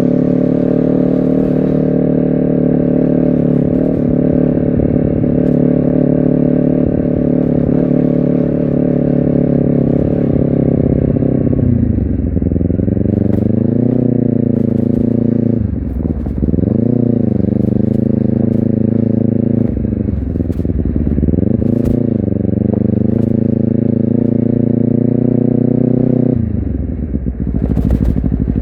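Honda CBR250RR motorcycle engine and exhaust under riding load, holding steady revs, then dipping and climbing back three times as the throttle is eased and reopened. Near the end the revs drop away as the throttle is closed.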